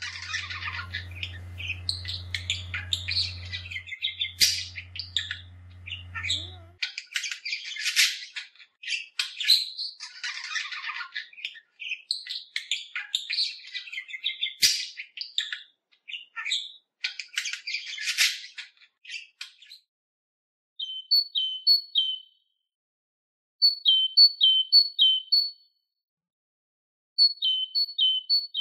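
Birds chirping and tweeting: dense high chirps for about the first twenty seconds, then short groups of quick repeated calls with silent gaps between them. A low hum sits under the first few seconds.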